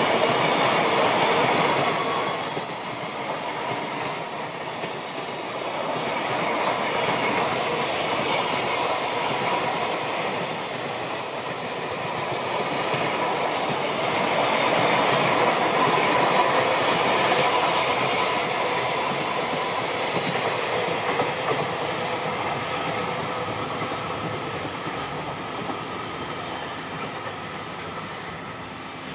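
Freight train of container flatcars behind an EF65 electric locomotive rolling past at speed: a steady rumble and clatter of wheels on the rails. It fades away near the end as the last wagons go by.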